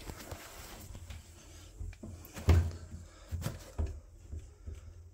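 Hard knocks and clunks of objects being handled amid a stripped-out kitchen cupboard, a handful of separate thuds with the loudest about two and a half seconds in.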